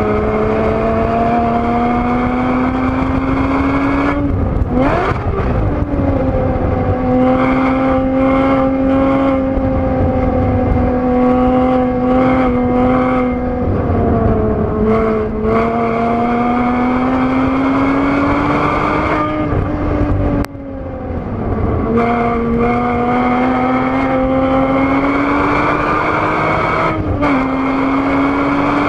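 2013 Porsche Boxster S (981) 3.4-litre flat-six at high revs, heard from inside the cabin. The engine note climbs under full throttle, falls sharply about four seconds in under braking and a downshift, then climbs again through the gears. There is a brief lift off the throttle about twenty seconds in and an upshift near the end.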